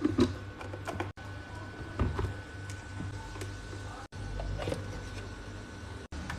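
Scattered light clicks and knocks from handling a Fluke 199 handheld oscilloscope, over a steady low electrical hum.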